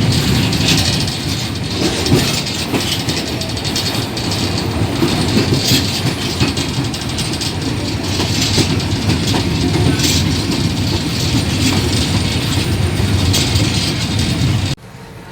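Old passenger train running along the track: a steady loud rumble with the clickety-clack of wheels over the rails. It cuts off suddenly near the end.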